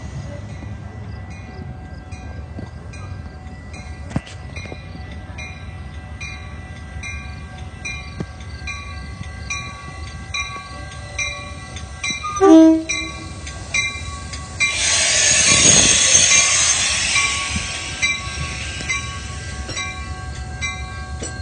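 Metra commuter train at a station, with grade-crossing bells ringing steadily throughout. About twelve seconds in the train's horn gives one short blast, followed by a loud hiss of air lasting about three seconds as the train gets ready to leave.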